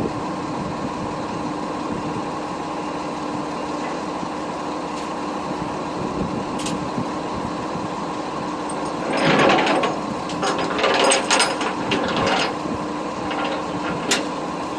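Truck running while driving, heard inside the cab as a steady drone, with a burst of loose rattling and clatter about nine seconds in that comes and goes for a few seconds.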